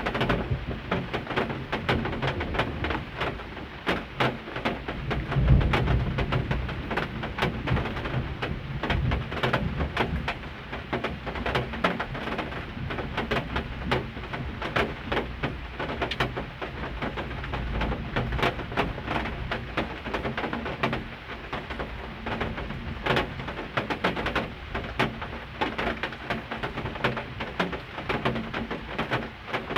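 Pigeons cooing over the steady patter of heavy rain, with a low rumble about five seconds in.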